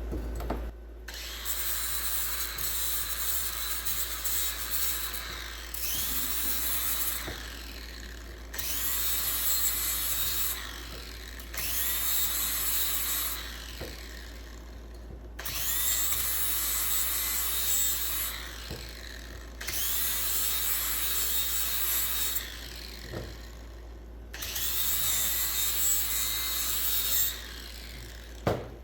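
A hand-held power tool worked in seven bursts of a few seconds each, its motor whining up to speed at the start of each burst as it cuts or grinds at material.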